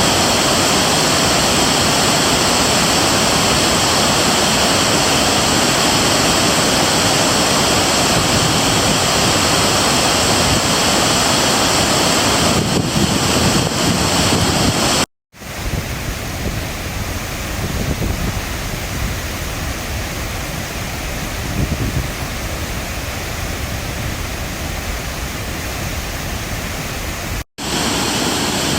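Waterfall rushing, a steady loud roar of falling water. About halfway and again near the end the sound cuts out for a moment and comes back somewhat quieter.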